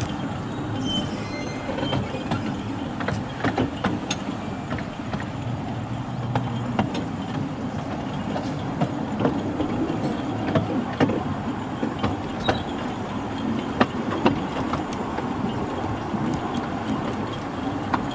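15-inch-gauge railway carriage running along the track, heard from on board: a steady rumble of wheels on rail with frequent irregular clicks and knocks from the rail joints.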